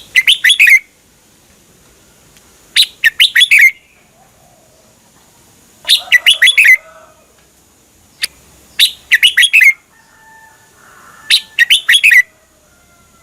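Red-whiskered bulbul singing: five short, rapid warbled phrases, each about a second long, coming roughly every three seconds with pauses between.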